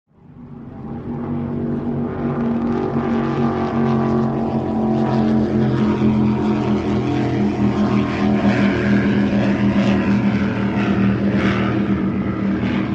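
A vehicle engine running steadily, a low drone with a steady pitch that fades in over the first second or two.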